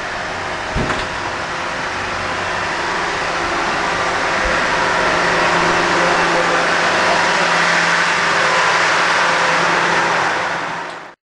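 Steady rumble and hiss of a passenger train in motion, heard inside the coach, growing louder from about four seconds in, with a single knock about a second in; it cuts off suddenly near the end.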